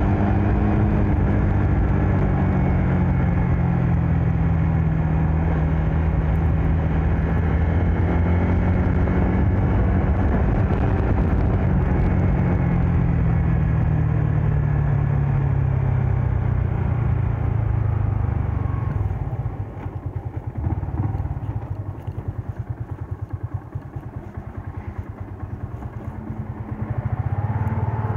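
Yamaha MX King 150's single-cylinder four-stroke engine running while the bike is ridden, its pitch falling as it slows, then settling to a pulsing idle about two-thirds of the way in. It gets louder again briefly near the end.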